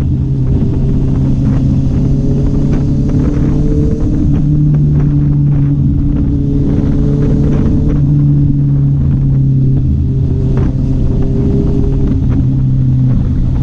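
Honda CB650R's inline-four engine and exhaust running at steady revs, the pitch easing up and down slightly several times, with some wind noise.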